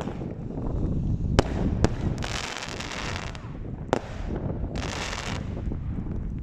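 Fireworks going off in a snowstorm: a sharp bang about a second and a half in, another half a second later and a third about four seconds in, between stretches of hiss, with wind buffeting the microphone.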